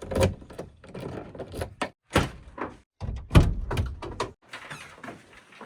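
A series of heavy thuds and knocks, some with a short scraping tail, broken by brief dead-silent gaps.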